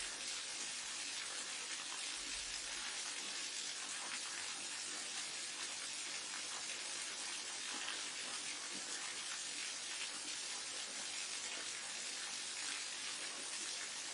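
Forest waterfall and mountain stream: falling and running water making a steady, even, hissing rush.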